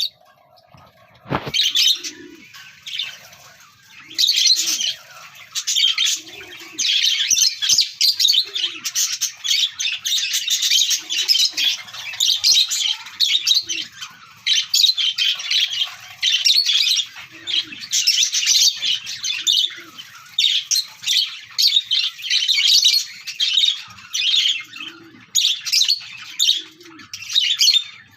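Pet lovebirds, a Fischer's lovebird and a lutino, chattering with a dense, constant stream of shrill chirps and squawks. Short low calls come in every few seconds, and there is a single knock about a second and a half in.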